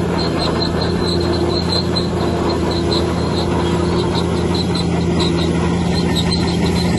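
Heavy diesel earthmoving machinery, likely a bulldozer, running steadily, with short high squeaks repeating about three times a second.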